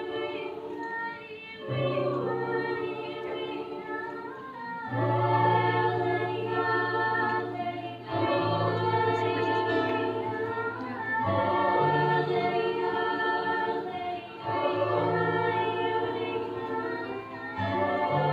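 Choir singing in several voice parts, sustained chords in phrases of a few seconds each.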